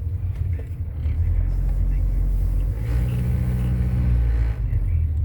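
Car engine and road rumble heard from inside the cabin as the car idles and creeps along a drive-thru line. A steadier engine hum rises in from about three seconds in and fades a little after four seconds.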